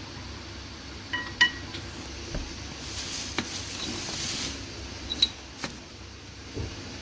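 Metal tools and parts clinking and tapping during brake work, with one ringing metallic clink about a second and a half in, and a short hiss in the middle.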